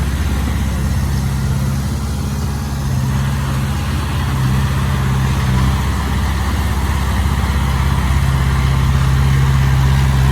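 A heavy-equipment diesel engine running steadily, its low note swelling and easing slightly as the load changes.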